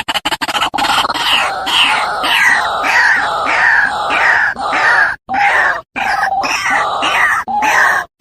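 White-breasted waterhen (ruak-ruak) giving its loud, harsh croaking call, repeated about twice a second, with two short breaks about five and six seconds in.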